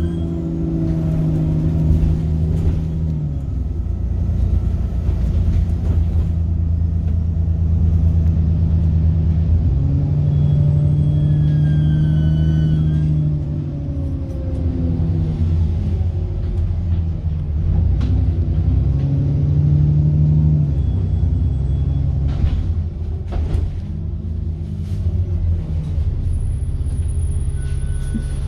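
Single-deck bus's diesel engine heard from on board, pulling away and changing gear several times, with a high turbocharger whine that rises and falls above the engine note.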